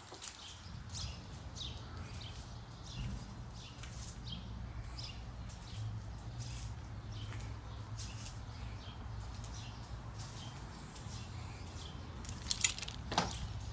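A bird chirping over and over, short falling chirps about one or two a second, over a low steady hum. A couple of sharp knocks near the end, as the mesh screen door is handled.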